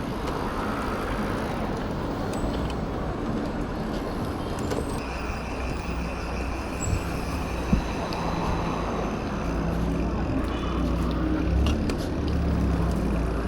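Street traffic noise: a steady wash of passing vehicles, with a high steady whine for several seconds midway and a low vehicle engine rumble growing louder near the end.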